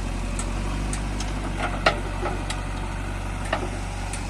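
John Deere 5050D tractor's diesel engine idling steadily, with two sharp knocks, the louder one about two seconds in.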